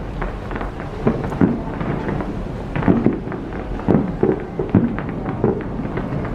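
Fireworks going off in a dense, irregular barrage of bangs and crackles over a continuous rumble, with heavier low booms coming roughly once a second in the second half.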